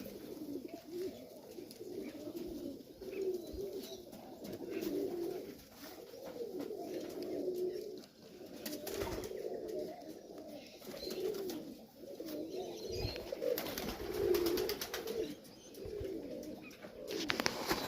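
Serbian highflyer pigeons cooing over and over, low wavering coos overlapping one another. A few short clicks sound about halfway through and near the end.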